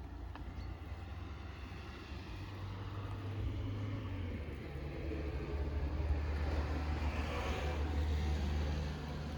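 A passing road vehicle, swelling and fading about seven to eight seconds in, over a steady low rumble.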